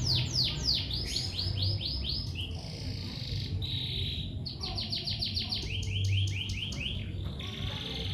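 Lovebird chirping in fast runs of short, high chirps, each dropping in pitch, about six to seven a second, broken by a few longer harsh, buzzy notes.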